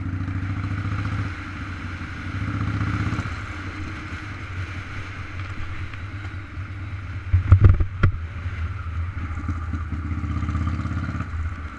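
Wind and road rumble on a microphone riding along on a bike, steady with a few swells, broken by a short loud thump about seven and a half seconds in.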